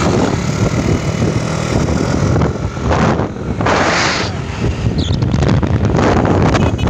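A road vehicle's engine running while driving, with wind buffeting the microphone; a louder rush of wind about three to four seconds in.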